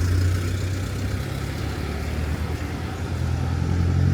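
Moped engine running steadily with a low hum while riding, under a steady rush of wind and road noise.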